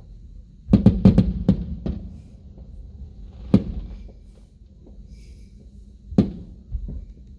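Aerial fireworks bursting: a quick volley of about six sharp bangs in the first two seconds, then single bangs at about three and a half seconds and about six seconds, over a low rumble.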